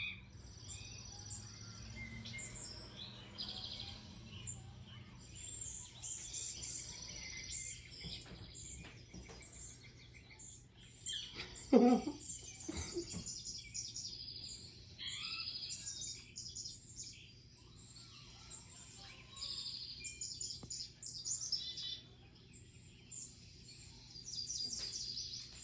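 Songbirds chirping and singing over and over, played through a TV's speakers from a bird video for cats. About halfway through comes one short, louder sound like a voice.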